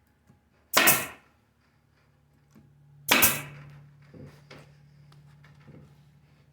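A stapler firing twice, about two seconds apart, driving staples through hardware cloth into a wooden beehive bottom board. Faint knocks and a low steady hum can be heard between the shots.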